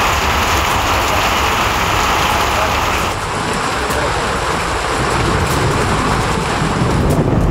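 Heavy rain pouring onto a wet street, a steady hiss that turns duller about three seconds in.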